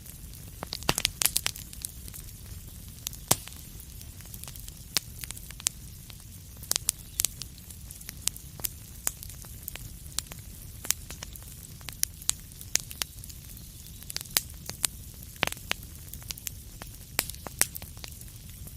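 Wood fire crackling in a fireplace: irregular sharp pops and snaps over a steady low rumble of flame, with a quick cluster of pops about a second in.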